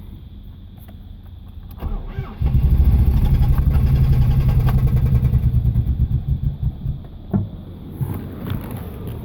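Starter motor cranking a Nissan Maxima's VE30DE 3.0-litre V6 for about four and a half seconds, an even rapid pulsing of compression strokes, before stopping without the engine catching. It is a crank-but-no-start: the engine has 40 psi of fuel pressure and new ignition parts, and the owner finds it will only start with the crankshaft position sensor advanced fully.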